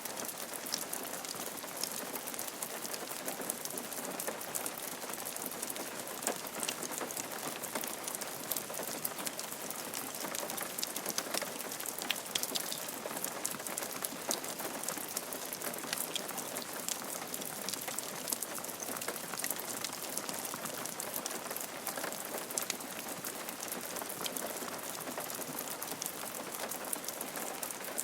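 Steady rain falling on a roof, a constant hiss dotted with the sharp ticks of single drops.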